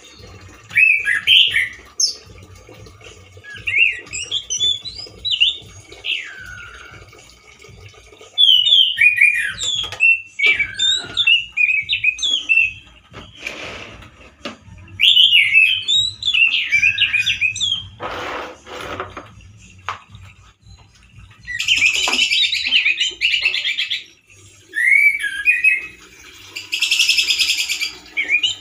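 Male orange-headed thrush singing loudly in bursts of quick, varied whistled phrases, broken by harsh, buzzy, rasping notes about two-thirds of the way in and again near the end. Two brief noisy bursts come in between the phrases.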